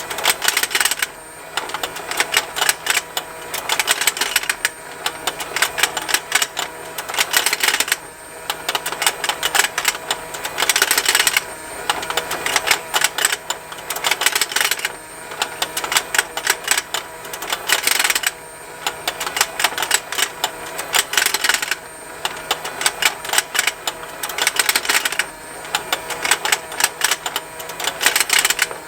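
Battery-powered plastic fishing game toy running: its motor and gears make a rapid, continuous ticking, with the plastic fish snapping open and shut. The clatter swells and dips briefly about every three and a half seconds as the pond turns.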